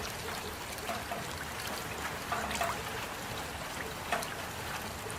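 Steady rain with water trickling, and single drops plinking now and then.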